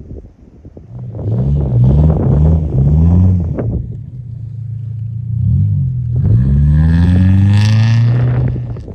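Car engine revving in several quick surges, then a longer rev that climbs and holds before dropping off near the end, with a hiss rising over it in the last couple of seconds.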